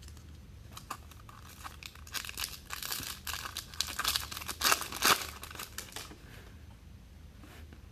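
Foil trading-card pack wrapper crinkling and tearing as it is handled and ripped open: a dense run of irregular crackles that grows busier in the middle and dies away about six seconds in.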